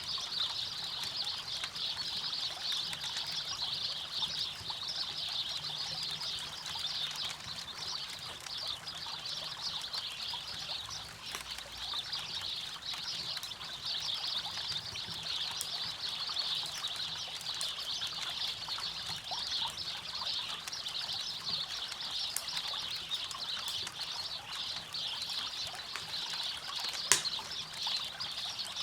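River water flowing steadily with a bright, fluttering rush, with a few light crackles from a campfire and one sharp pop near the end.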